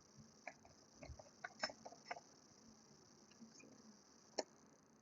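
Faint computer keyboard keys clicking in a few scattered taps, with one sharper tap about four and a half seconds in, over near silence.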